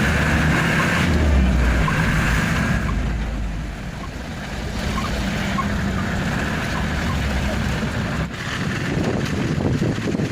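Truck engine running as the truck drives, a steady low hum with road and wind noise over it.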